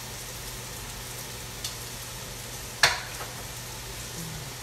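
Food sizzling with a steady hiss in a hot skillet, with a sharp click, like a utensil against a plate, nearly three seconds in and a smaller one just before it.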